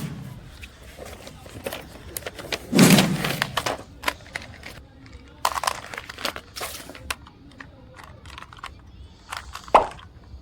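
A toy's box and plastic packaging being handled: scattered crinkling and clicks, with a heavier thud about 3 s in.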